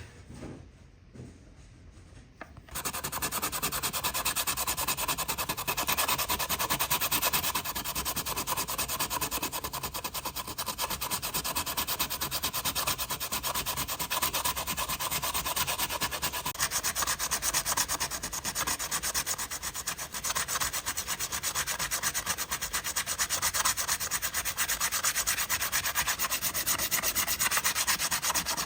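Sanding: a steady, continuous abrasive rubbing that starts about three seconds in, after a few faint knocks.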